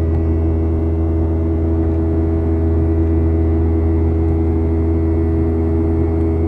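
Steady drone inside the cabin of a Boeing 737-800 airliner: a strong low hum with several steady tones above it, unchanging throughout.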